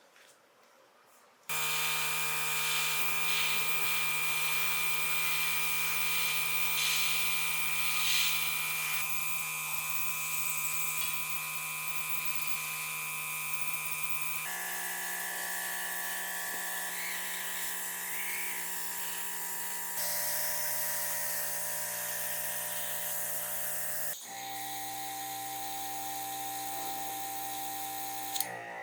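Small high-speed electric rotary tool running steadily with a whine. It starts about a second and a half in and stops near the end, and its pitch jumps abruptly three times along the way.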